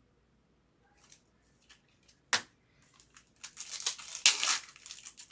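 Trading-card pack wrapper being torn open and crinkled: a single sharp rip a little over two seconds in, then a dense stretch of crinkling through the second half, loudest near the end.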